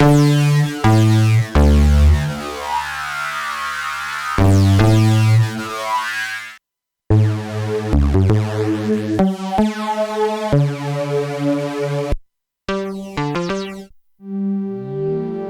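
Jeannie polyphonic DIY synthesizer playing chords: held chords with a sweeping filter for the first six seconds, then a quicker run of chord changes broken by brief silences, ending on a held chord with gliding pitches.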